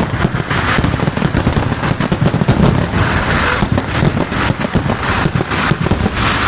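A dense, continuous barrage of firecracker bangs from a Kerala temple fireworks display (vedikkettu), many reports a second running together over a low rumble.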